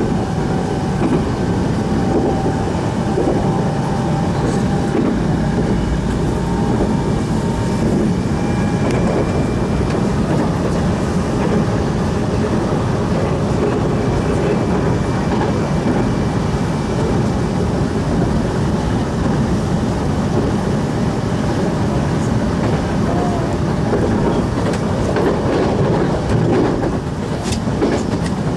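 Electric train running, heard from inside the passenger car: a steady rumble of wheels on rails, with a few sharp clicks near the end.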